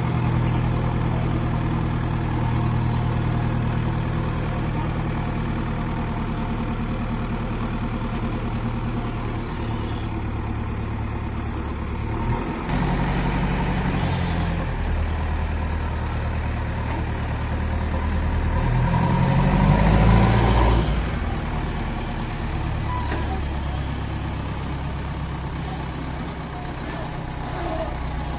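JCB 3DX backhoe loader's diesel engine running, its pitch shifting as the machine works. It revs up to its loudest about twenty seconds in, then settles back.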